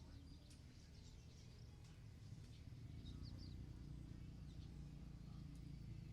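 Quiet outdoor ambience: a few faint, high bird chirps in the first half over a low, steady rumble.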